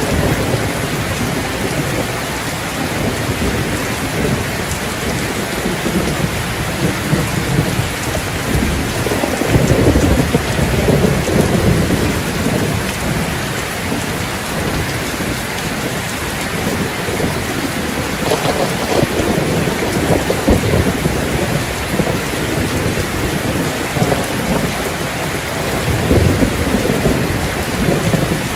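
Steady heavy rain falling on hard surfaces, with deeper surges that swell and fade about ten seconds in, again near twenty seconds, and near the end.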